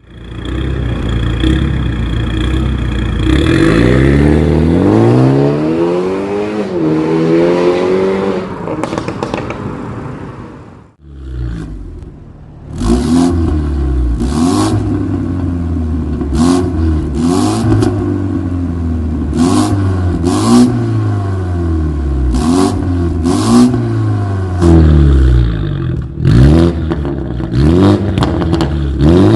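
BMW G20 330i's turbocharged 2.0-litre four-cylinder revving through an aftermarket stainless valved full exhaust. First one long rev rises and falls, the sound drops almost to nothing about eleven seconds in, and then comes a string of quick throttle blips, each rising and falling, with brief sharp cracks among them.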